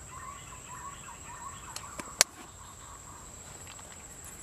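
Birds calling in wavering chirps in the treetops, over a thin steady high-pitched tone. One sharp click about two seconds in.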